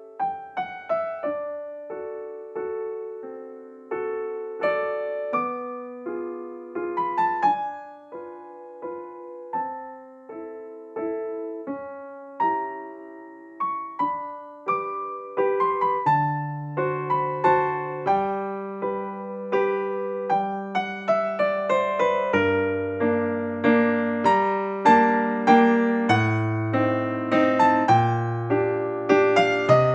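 Soft background piano music: a slow melody of single struck notes over chords, with low bass notes joining about halfway through and the playing growing fuller toward the end.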